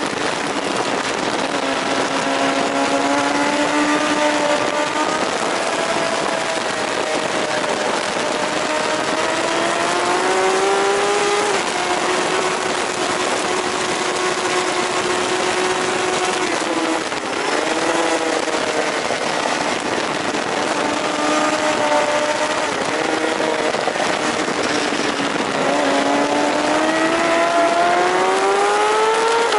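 Onboard sound of a JSB-class racing superbike's engine at race speed, its pitch climbing under acceleration and falling back several times, with a sharp dip a little past halfway. A steady rush of wind and road noise runs underneath.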